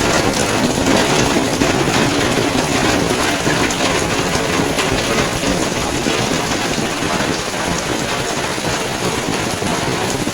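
Rain falling steadily on surfaces, a loud even hiss made up of many small drop hits.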